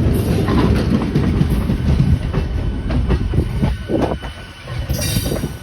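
Howrah–Azimganj Ganadevta Express passenger train running past at close range, its wheels clattering over rail joints in a dense run of clicks and knocks over a steady rumble. A brief high hiss comes near the end.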